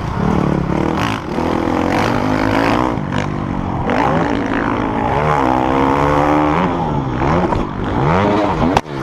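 Dirt bike engines revving, their pitch rising and falling again and again, with a couple of sharp knocks near the end.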